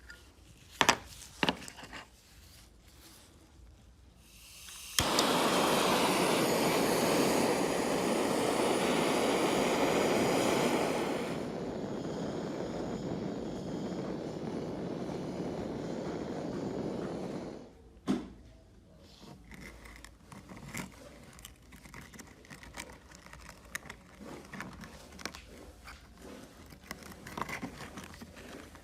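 Workshop power tool running for about thirteen seconds, loud for the first half, then lower until it cuts off suddenly. It is framed by sharp clicks before it and light handling clicks after it.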